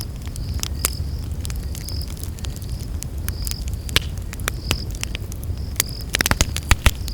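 Campfire burning with a steady low rumble and frequent sharp crackles and pops, including a quick flurry of pops about six seconds in. A short high chirp repeats about once a second behind it.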